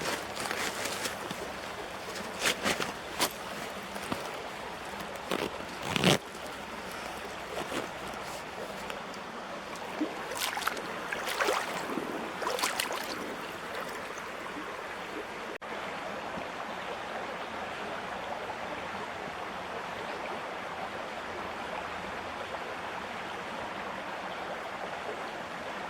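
Stream of water flowing with a steady rush, with scattered knocks and clicks in the first half.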